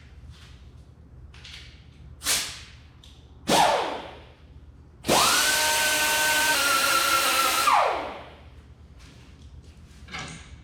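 Handheld electric power tool, like a drill, briefly triggered twice and then run for about three seconds with a steady whine before winding down. It is working to open up a hole or part a little during metal fabrication.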